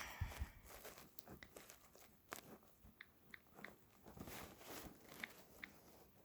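Near silence with faint scattered clicks and taps, and a few short, faint high blips.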